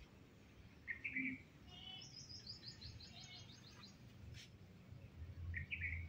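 Birds singing: a short chirp about a second in and another near the end, and between them a fast run of high notes stepping down in pitch.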